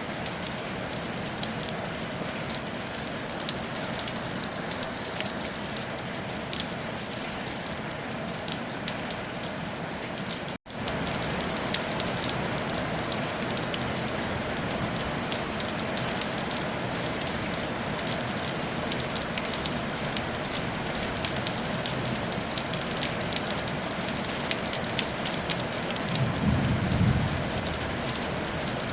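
Steady rain on a tile roof, a dense even patter of many small drop ticks. It cuts out for an instant about ten seconds in and resumes slightly louder. A brief low rumble comes near the end.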